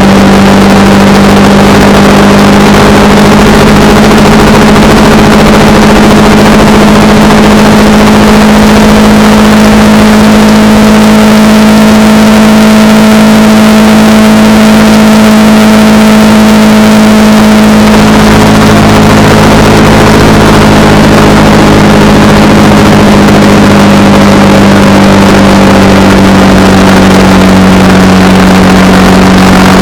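Honda Rebel 300 motorcycle engine running at a steady cruise, with wind noise over the microphone. The engine note holds steady, shifts slightly about eighteen seconds in, then eases a little lower near the end.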